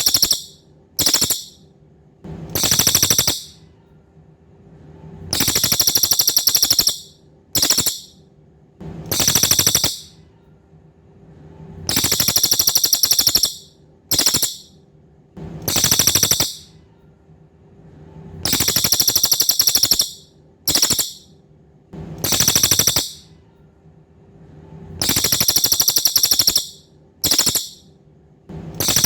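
Cililin bird singing high-pitched, rapid buzzy trills in a repeating three-part phrase: a long trill, a short burst, then a medium trill. The phrase comes back after a short pause about every six and a half seconds.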